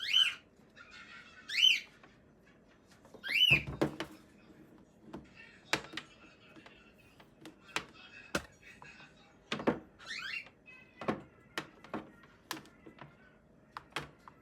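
Scattered sharp clicks and taps of hard plastic parts and small tools being handled, with four short high chirping glides among them.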